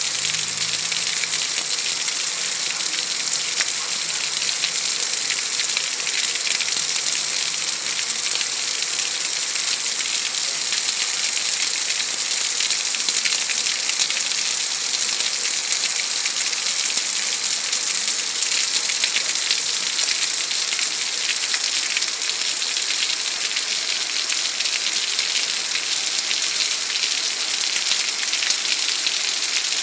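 Heavy rain falling steadily: a dense, even hiss of drops on hard surfaces.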